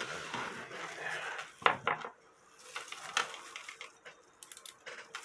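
Brass cuckoo-clock chains clinking and rattling as they are handled, with a few sharp clicks and a quick run of small clicks near the end.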